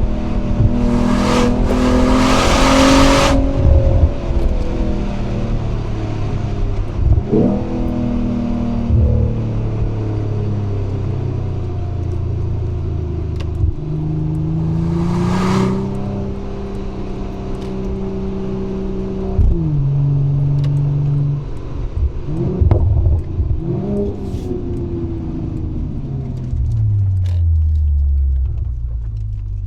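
Mercedes-AMG CLE 53's turbocharged 3.0-litre inline-six exhaust while driving, the engine note rising under acceleration and stepping down at gear changes, with a few short sharp cracks.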